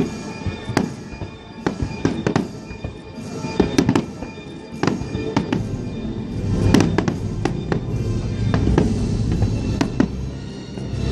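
Fireworks exploding in quick irregular succession: sharp bangs and crackles, some with a booming tail, over music playing throughout.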